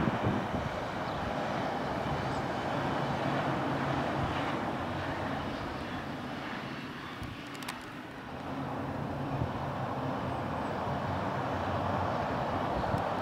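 Distant DB class 425 electric multiple unit running over a steel truss railway viaduct: a steady rumble with a low hum, dipping briefly about halfway through and then rising again.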